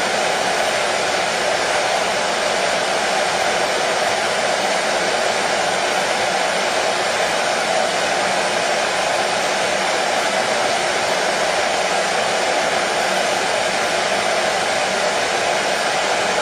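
Hair dryer running continuously at a steady speed, a constant rushing whoosh with a faint motor hum and no change in level.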